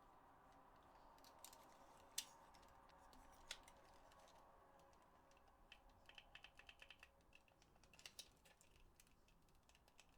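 Faint clicks and taps of small plastic parts of a DualShock 4 controller being handled and fitted: two sharper clicks a couple of seconds in and at about three and a half seconds, then a quick run of light ticks around the middle.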